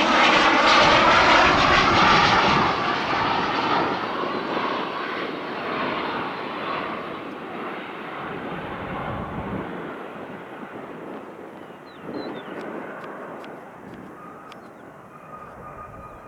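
Fixed-wing airplane engine passing close by, loud at first with its pitch falling, then fading steadily into the distance.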